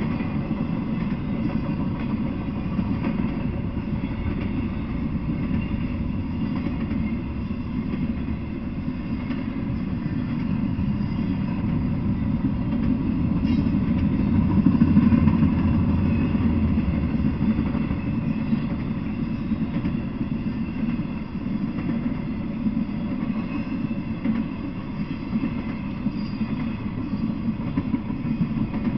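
Freight train of intermodal well cars rolling past: a steady rumble of steel wheels on rail, louder for a moment about halfway through.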